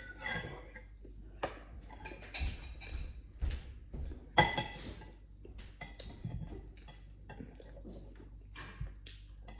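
Cutlery clinking and tapping against plates and dishes in scattered light knocks, with one louder ringing clink about four and a half seconds in.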